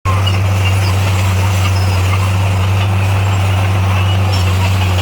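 Heavy diesel engine of construction machinery running steadily at an even, constant pitch, with a low drone and no change in speed.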